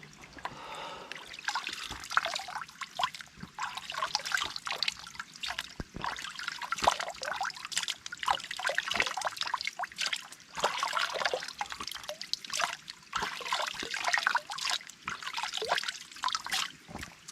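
Water splashing and trickling in a shallow creek, in quick, irregular splashes.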